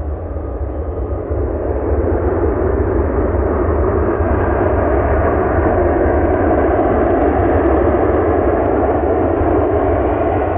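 Jet airliner's engines on the runway, a loud noise that swells over the first two seconds, holds steady, and eases slightly near the end.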